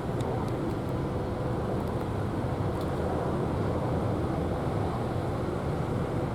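Steady low rumble with a faint steady hum from the cruise ship Radiance of the Seas passing close by.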